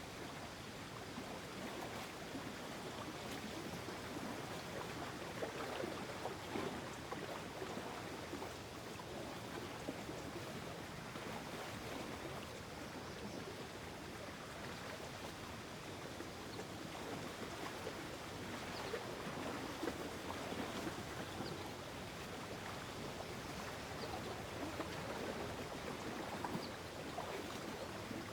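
Gentle mountain lake ambience: a steady soft wash of water lapping and flowing, rising and falling slightly.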